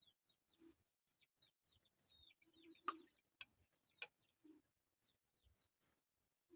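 Faint bird calls: a run of quick high chirps with a few low clucks among them, and several sharp clicks near the middle.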